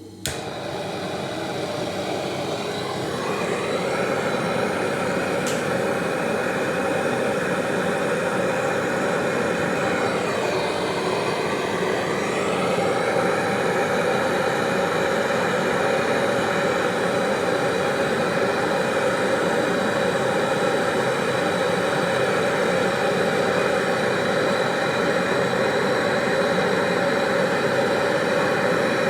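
A machine switched on abruptly and running steadily, a loud, noisy hum with a slight swoop in pitch twice.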